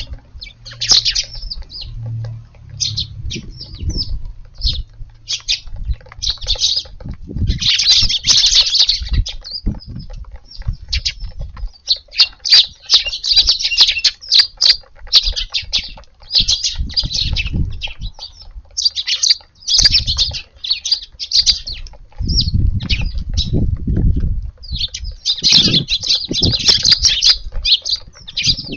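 A flock of Eurasian tree sparrows chirping and chattering, the calls thickening into dense busy bouts several times, with low thumps and rumbles underneath.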